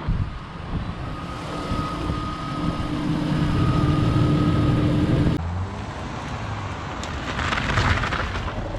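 Car engine running at steady revs, its note swelling for a few seconds and then cut off abruptly, followed by a different, rougher vehicle sound that rises again near the end.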